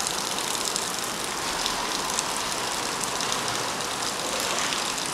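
Steady rain falling, an even hiss with fine patter.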